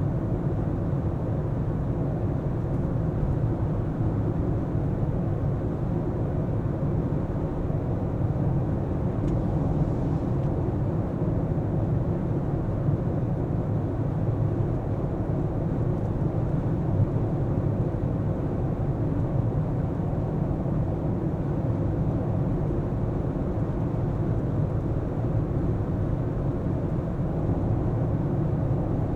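Steady low rumble of a car being driven, engine and tyre noise together, with no sudden events.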